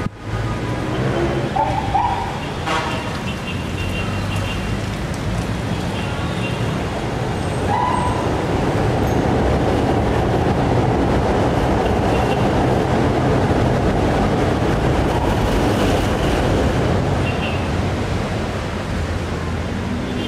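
A train on the elevated light-rail line overhead rumbling past over city street traffic. The rumble swells from about eight seconds in and eases near the end, with a couple of brief squeals.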